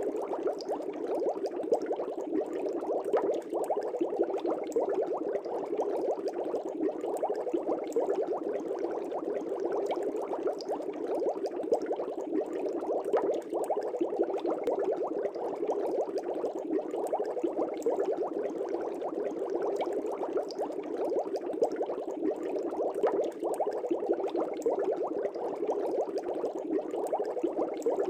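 Fish tank air bubbles rising and breaking at the water surface in a steady, continuous bubbling.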